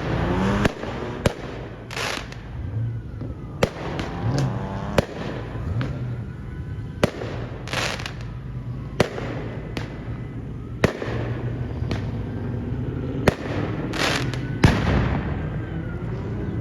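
Fireworks going off: a dozen or so sharp bangs at uneven intervals, a few of them with a short hiss.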